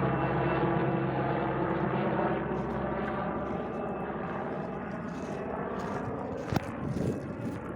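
Helicopter flying past close by, its engine and rotor noise steadily fading as it moves away. A sharp click sounds about two-thirds of the way through.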